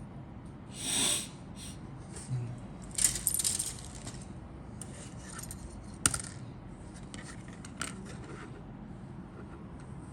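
Hard plastic model kit parts being handled, clicking and clattering against each other, with a short rustle about a second in and one sharp click about six seconds in.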